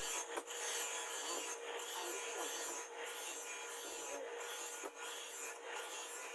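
Steel from a chainsaw bar being filed by hand: a steady rasping in long strokes, with a short break about every second and a half.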